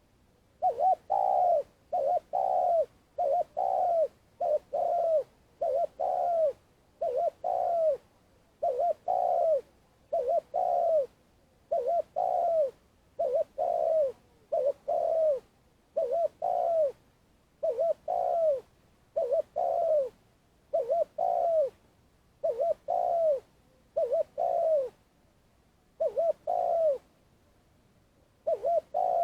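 Spotted dove cooing a long calling series: repeated low phrases of short coos ending in a longer note that falls in pitch, one phrase about every second or two.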